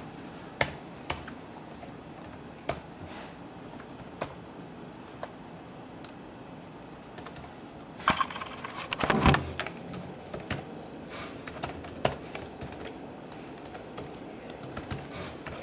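Computer keyboard typing: scattered single keystrokes, with a faster, louder run of keys about eight to nine seconds in.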